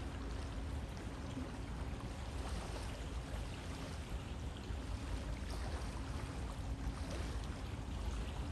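A river flowing: a steady rush of running water with a deep rumble underneath and small splashes and trickles flickering on top.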